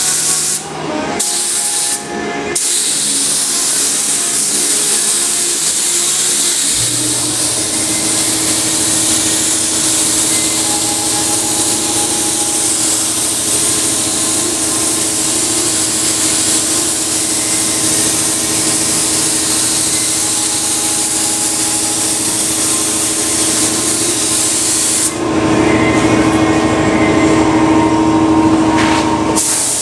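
Air spray gun spraying automotive primer: a steady high hiss, cut off briefly twice near the start as the trigger is let go. About seven seconds in, a steady low hum joins it.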